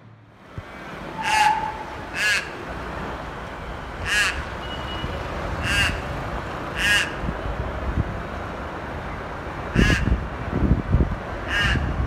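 A bird calling loudly and harshly, seven short calls each under half a second long, spaced about one to two seconds apart, over a low background rumble that grows heavier near the end.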